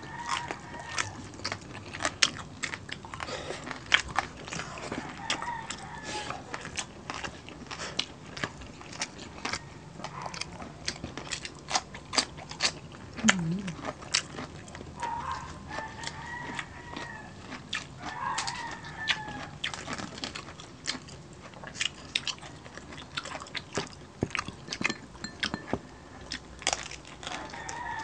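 Close-up chewing and crunching of crispy roasted pork belly skin (lechon belly), a dense run of sharp crackles. A rooster crows several times in the background.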